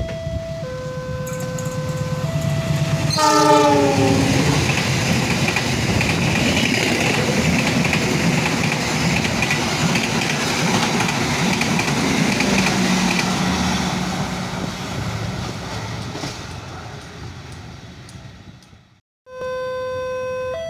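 A level-crossing warning bell alternates between two tones. About three seconds in, a diesel locomotive sounds a short horn blast that drops in pitch as it passes. A long passenger train then runs by with steady wheel-on-rail noise that slowly fades, and the crossing bell starts again just before the end.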